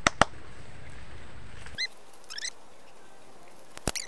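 A bird calling with a few short, quick rising chirps around the middle, over a low hiss that drops away about two seconds in. Sharp clicks at the start and a louder single knock near the end.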